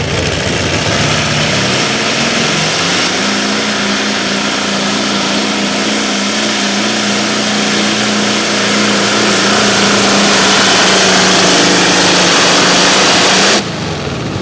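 Modified pulling tractor's two engines running at full throttle, dragging the weight-transfer sled. The pitch climbs over the first few seconds, holds steady, then cuts off suddenly near the end as the run stops.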